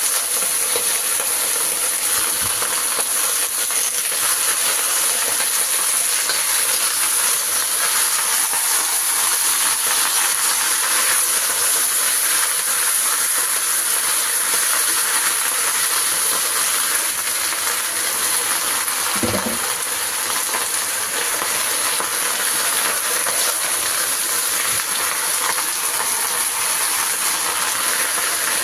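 Chopped Chinese cabbage sizzling in hot oil in a wok as it is stir-fried with a metal spatula, a steady high hiss. One short knock about two-thirds of the way through.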